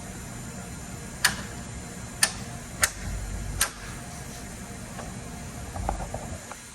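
Four sharp clicks about a second apart, then a softer rattle of small clicks near the end, as a truck grille and its fasteners are fitted into place.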